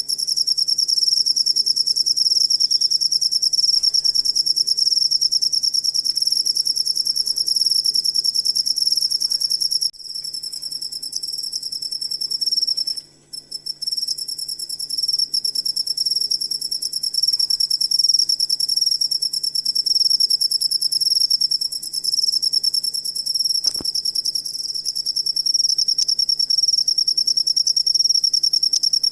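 Cricket chirping: a continuous, shrill, rapidly pulsing trill. It softens about ten seconds in, breaks off for a moment a few seconds later, then carries on.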